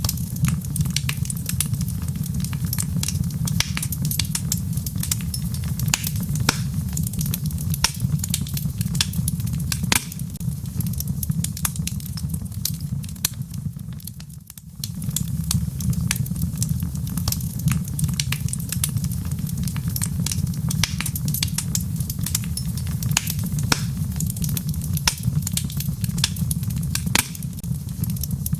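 Wood logs burning in a fireplace: a steady low rumble of flames with frequent sharp crackles and pops. The sound dips briefly quieter about halfway through, then comes back.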